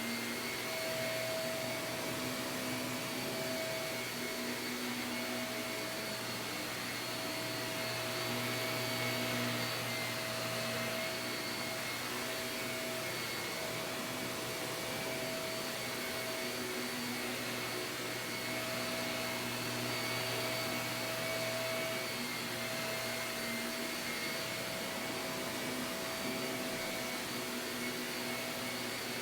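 Shark vacuum cleaner running steadily on carpet: a constant motor whine over airflow noise, swelling and easing slightly in level.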